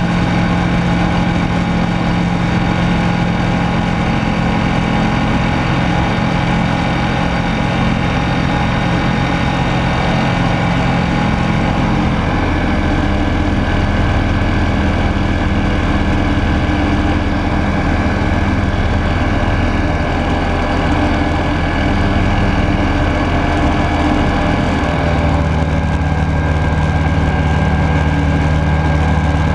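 Rotax 912S flat-four engine and propeller of a Rans Coyote S6 ultralight running steadily, heard from the cockpit. The engine note drops about twelve seconds in and shifts again near the end, a change in power setting.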